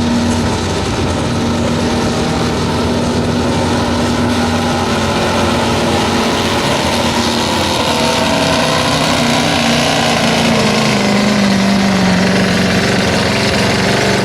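Modified pulling tractor's engine running loud and steady under load, its pitch slowly sagging in the last few seconds.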